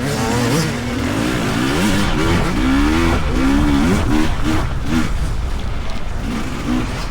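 Dirt bike engines revving as riders work the throttle on a race track: the pitch rises and falls again and again, with a run of short throttle blips about four to five seconds in.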